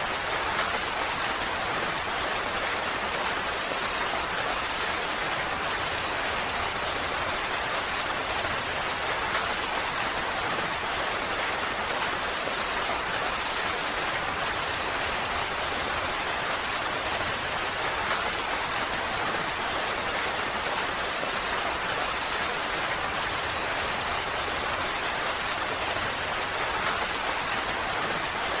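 Steady rain falling, an even unbroken hiss with a few faint drop ticks.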